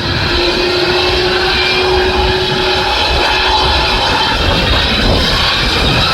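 Jet engines of an Asiana Airlines Airbus A330-323, Pratt & Whitney PW4000s, running loud and steady, with several whining tones that slowly slide in pitch over a low rumble. Gusty wind buffets the microphone.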